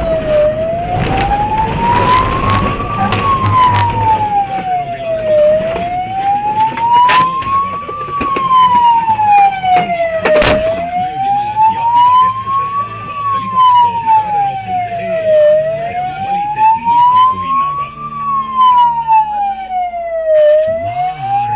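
Emergency vehicle siren on a slow wail, its pitch rising and falling evenly about every five seconds. A few sharp knocks cut in about a third and halfway through.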